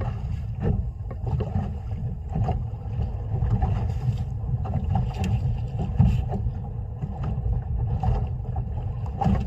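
Low, uneven rumble of wind and water around a small fishing boat at sea, with scattered knocks and bumps.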